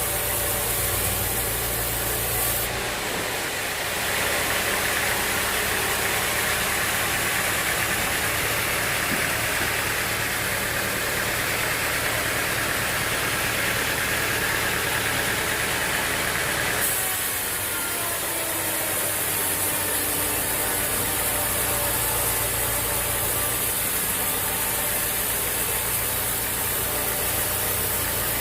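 Sawmill machinery with an engine running steadily, a continuous mechanical din that changes character abruptly about three seconds in and again around seventeen seconds.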